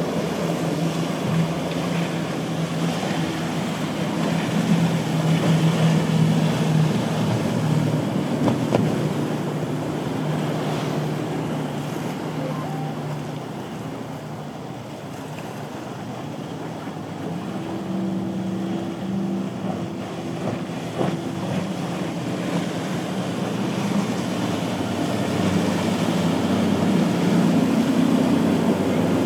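Motorboat engines running through a rough inlet: a steady engine hum that changes to a higher-pitched drone about two-thirds of the way through, as another boat or another throttle setting takes over. Surf and wind on the microphone run underneath.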